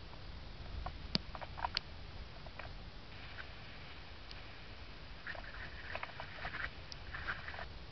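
Scattered raindrops ticking and pattering as rain begins, irregular single drops that come thicker in the last few seconds, over a low steady background rumble.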